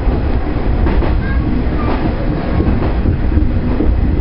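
JR Central 119 series electric train running, heard from the cab as it comes out of a tunnel: a steady low rumble of wheels on rail, with a few rail-joint clicks about a second apart.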